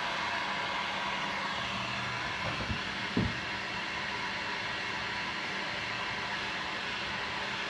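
Heat gun blowing steadily while heating a Kydex sheet to soften it for forming, a constant rushing hiss over a faint motor hum. A couple of dull low thumps come about three seconds in.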